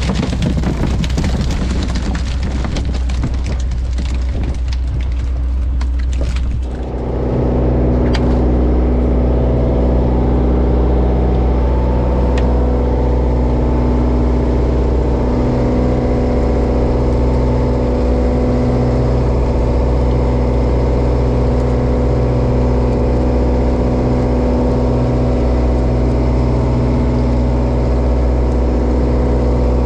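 For the first several seconds, a dense clattering noise with many knocks. Then, from about seven seconds in, the trawler's diesel engine running steadily at an even pitch.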